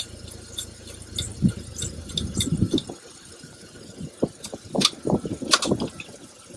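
1972 Buick Riviera's 455 V8 running, then cutting out about three seconds in, followed by a few scattered knocks. The stall may mean the fuel pump is not working.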